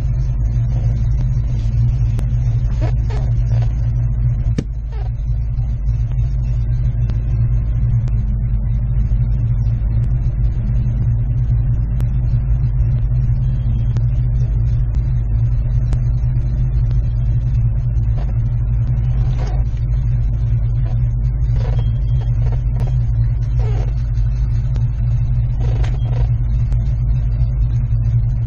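Car engine idling steadily, a low, even rumble heard from inside the cabin.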